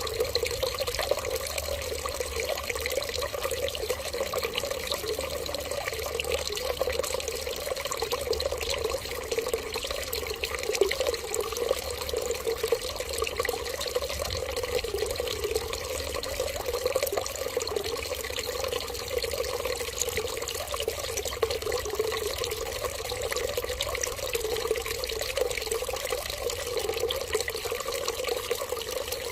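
Water running steadily and without a break, a continuous splashing flow.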